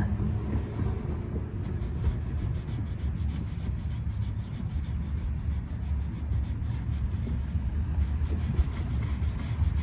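Magic eraser sponge rubbed back and forth with water on a chrome exhaust tip, in quick repeated strokes, over a steady low rumble.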